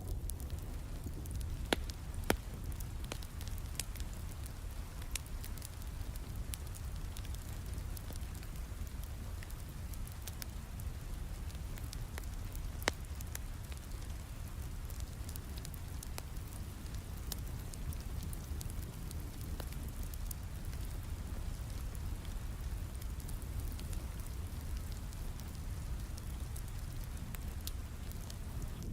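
Steady rain mixed with a crackling fireplace: an even rain hiss with a low rumble underneath, dotted with small crackles and a few sharper pops from the fire, two of them about two seconds in and one near the middle.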